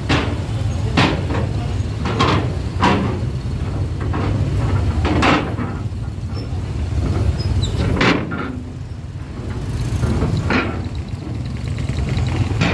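Steady low drone of a ferry's engine, with about ten irregular metallic knocks and bangs over it.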